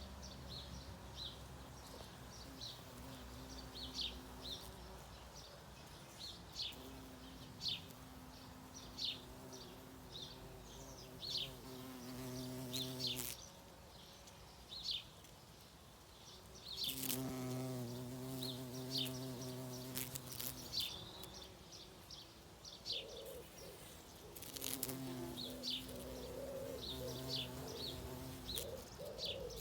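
A flying insect buzzing in bouts, dropping out for a few seconds and returning, over frequent short high bird chirps.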